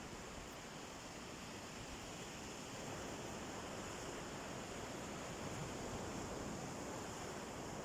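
Gentle sea waves washing onto a beach, a steady surf hiss that swells slightly in the middle.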